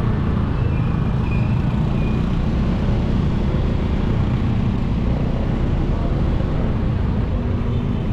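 Motorcycle running at a steady cruise, its engine and the wind and road rumble blending into one continuous low drone, picked up by a bike-mounted action camera through a foam wind muffler.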